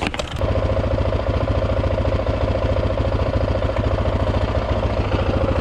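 Single-cylinder dirt bike engine starting and catching at once, then running at a steady idle with a rapid, even firing beat.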